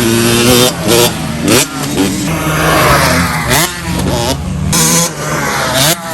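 Several motocross dirt bikes revving on the track, engine pitch climbing and dropping again and again as they accelerate and shift up through the gears, more than one bike heard at once.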